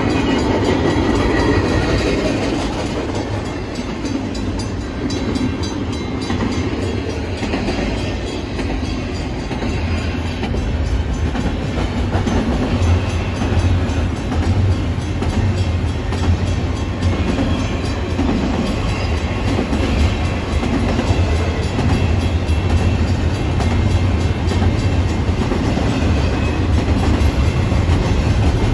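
Double-stack container well cars of a freight train rolling past, a loud steady rumble and clatter of steel wheels on the rails.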